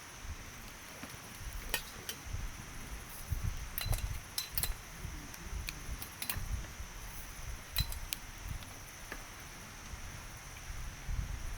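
Wood fire crackling: irregular sharp pops and snaps from the burning wood over a low, uneven rumble.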